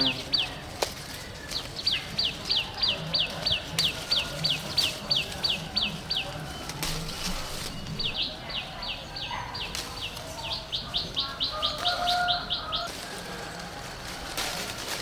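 A bird calling in long runs of quick, high, downward-slurred notes, about four a second, pausing briefly twice.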